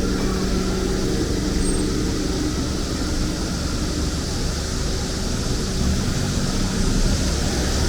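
Steady city street ambience: traffic and engine hum, with a high, even drone of cicadas over it.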